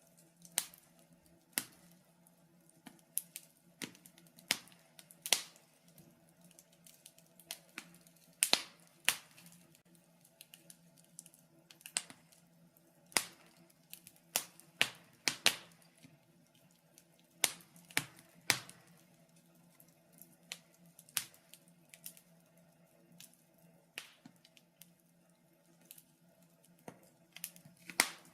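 Wood fire in a fireplace crackling: irregular sharp pops and snaps, a few every couple of seconds, over a faint steady low hum.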